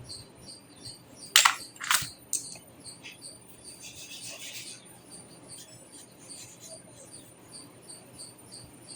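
A cricket chirping steadily in the background, a little over two high chirps a second. Two loud sharp clicks about a second and a half and two seconds in, and a softer one just after, are the loudest sounds, followed by a brief rustle about four seconds in.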